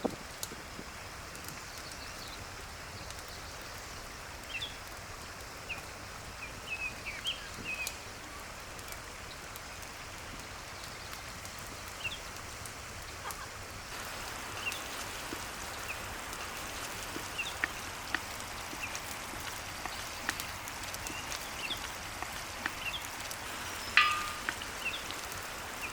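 Vegetable stew simmering in a cauldron over a wood fire: a steady bubbling hiss with scattered crackles and pops, growing a little louder about halfway through, with one louder pop near the end. Small birds chirp now and then.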